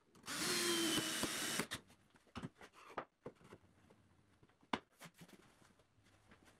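A handheld power tool runs in one short burst of about a second and a half. It is followed by quieter scattered knocks of wood being handled and one sharp click about three seconds later.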